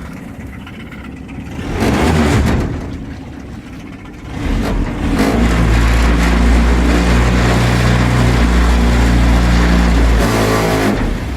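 Suzuki DF15 four-stroke outboard motor running slowly, swelling briefly about two seconds in, then opened up about four seconds in and running steadily at high revs, with a short dip near the end.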